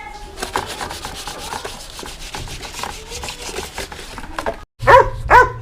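Wet sandpaper scrubbing over a motorbike's painted side panel in short, irregular strokes. Near the end, after a brief break, a dog gives two loud yelps.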